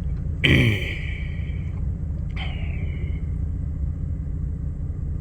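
Jeep Liberty's 3.7L V6 idling steadily just after its misfire repair, with bank 2 still running slightly rich. About half a second in, a short sigh-like voice sound falls in pitch.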